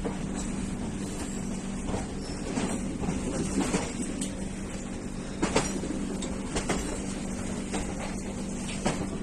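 Indian Railways ICF passenger coach rolling over track: a steady rumble and hum, broken by irregular sharp clanks as the wheels strike rail joints and crossing points.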